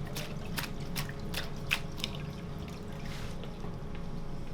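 A run of light ticks and drips, about two a second, that stops about two seconds in, over a steady low hum.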